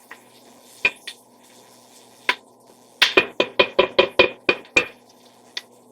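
A cooking spoon knocking against a pot while onions and garlic are stirred: a few separate knocks, then a quick run of about ten knocks, over a steady low hum.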